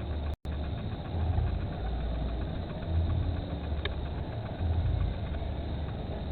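A low, uneven rumble that swells and fades every second or so, with a brief cut-out near the start and a faint tick about four seconds in.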